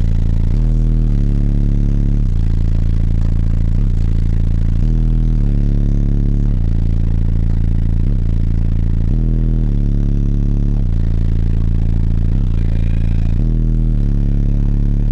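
Six Sundown Audio X 12-inch subwoofers in a Honda Civic's wall enclosure, powered by three Twisted Sound 3.5k amplifiers wired at half an ohm, playing a deep bass line very loud. The notes hold for a second or two each and then slide to a new pitch.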